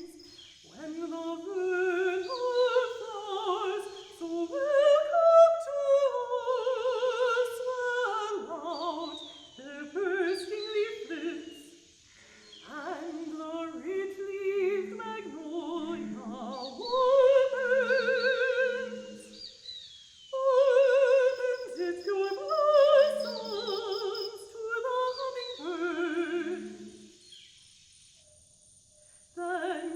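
Operatic singing with wide vibrato, in sustained phrases of a few seconds broken by short pauses; it fades out near the end.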